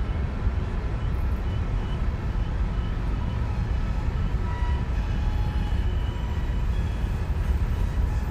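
Freight train running by on the rails, a steady heavy low rumble.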